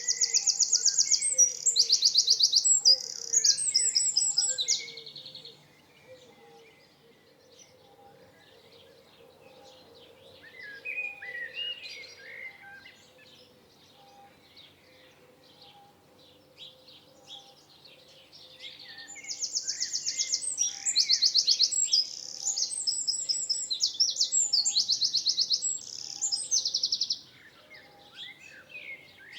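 Songbird singing: two long bouts of fast, high trilled phrases, one at the start and one from about two-thirds in, with quieter chirps between them. A faint low note repeats about once a second underneath.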